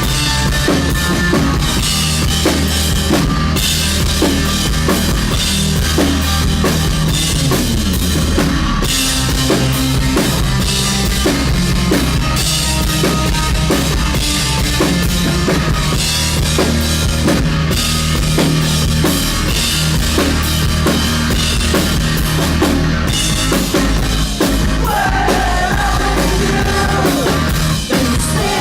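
Live rock band playing loud, driven by a steady, even drum-kit beat over bass and guitar; a melodic line comes in near the end.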